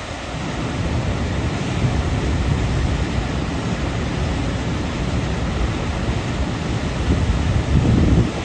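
Waterfall: water falling in a steady, loud rush, with a low rumble that swells briefly near the end.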